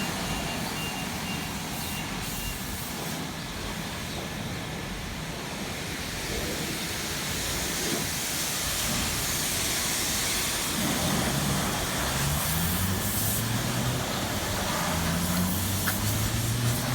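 A steady hiss with a motor vehicle's engine running under it, its pitch rising as it speeds up in the second half.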